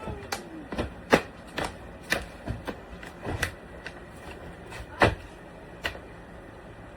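A series of sharp clicks and knocks, about a dozen irregular ones, the loudest about a second in and again about five seconds in.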